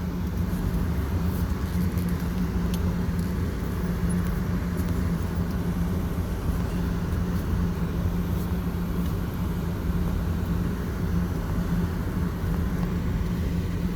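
Car running at a steady speed, heard from inside the cabin: a steady low engine hum with road and tyre noise.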